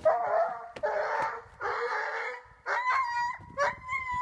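An animal calling: three harsh, rasping cries, then from about two and a half seconds in a run of short, high, whining cries.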